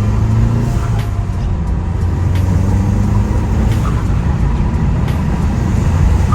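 Turbocharged car engine running under load while driving, its low pitch shifting up and down, with a few short sharp clicks through it.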